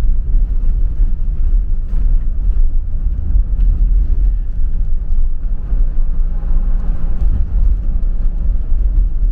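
Steady, loud low rumble with no distinct events.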